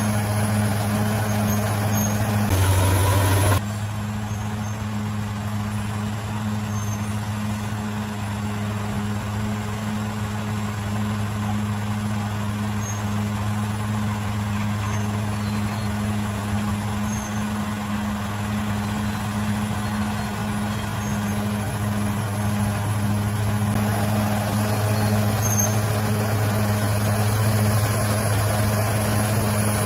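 Bulldozer diesel engine running steadily with a deep, even drone. About two and a half seconds in there is a brief, louder burst of noise lasting about a second, and the engine grows slightly louder near the end.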